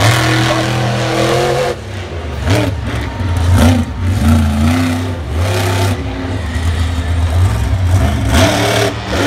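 Monster truck engine running loud, first holding a steady drone, then dropping off about two seconds in and rising and falling with throttle blips.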